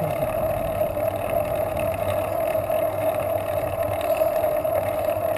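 Steady, constant-pitch vehicle drone with a bed of road and wind noise.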